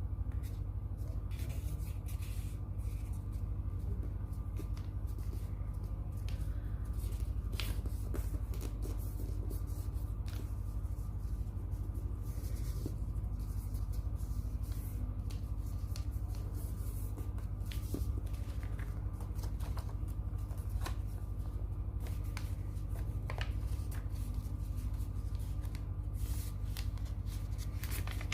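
A sheet of paper being handled and folded by hand, with irregular rustling and crinkling and sharp little creasing clicks, over a steady low hum.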